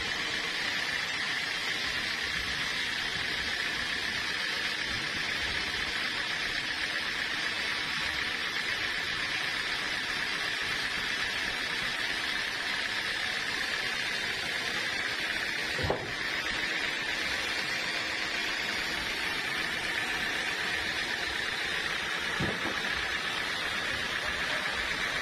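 Sawmill machinery running steadily, a constant high hiss, with a short sharp knock about 16 seconds in and a fainter one about 22 seconds in.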